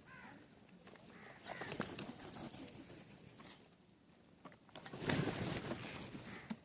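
Birds at a feeder giving short chirping calls among scattered clicks, with a louder rustling burst about five seconds in.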